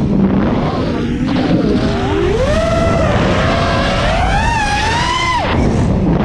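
FPV quadcopter's brushless motors whining, their pitch rising and falling with the throttle over a steady rushing noise. The pitch climbs from about two seconds in, then drops sharply near the end as the throttle is cut.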